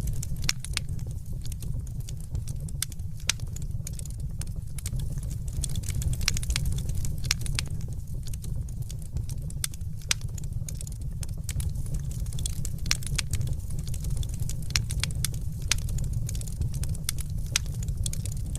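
Wood fire crackling in a fireplace: frequent sharp pops and snaps, irregular and many a second, over a steady low rumble of the flames.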